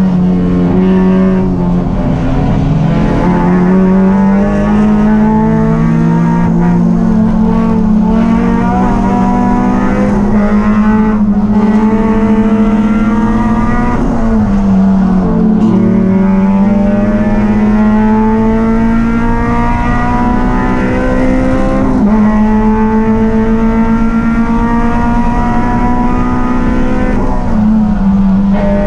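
A race car engine running hard and loud. Its pitch climbs slowly for several seconds at a time, then drops sharply and climbs again, three times over.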